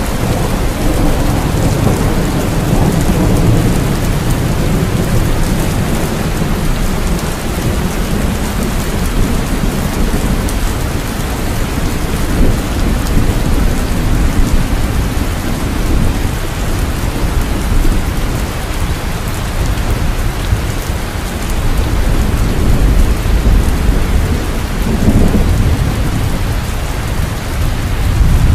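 Steady heavy rain falling, with low rolling thunder rumbling under it, swelling in the first few seconds and again a few seconds before the end.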